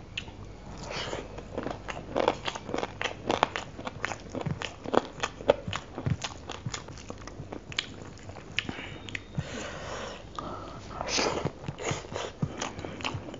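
Close-miked eating sounds: wet chewing and lip smacks of a mouthful of rice and chicken curry, in many quick clicks, with a few longer squishy smears from fingers mixing the rice into the curry.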